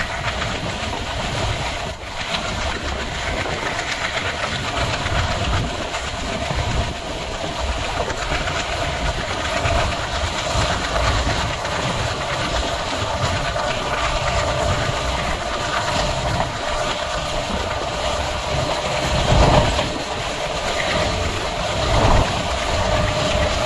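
Diesel-hauled Indian Railways passenger express running at speed, heard from on board: a steady rumble and rattle of coach wheels on the rails, with two louder bursts of clatter near the end, a couple of seconds apart.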